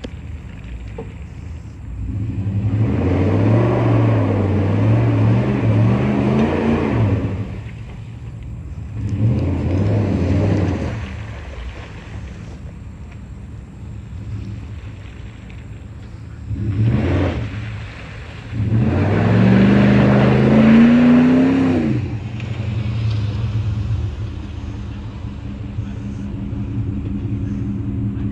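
Straight-piped Jeep Grand Cherokee exhaust running at a low steady rumble, with four surges of revving. The two longest surges climb in pitch, and the last one, near the end, is the loudest before it drops back.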